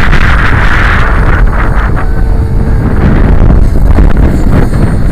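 Strong wind buffeting the microphone in gusts of about 45 mph, with the whine of a Blade 360 CFX electric RC helicopter's rotors, loudest in the first second and then fading.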